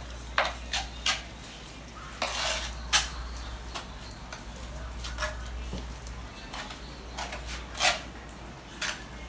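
Ceramic tiles and hand tools being handled, giving about ten scattered sharp clinks and a short scrape.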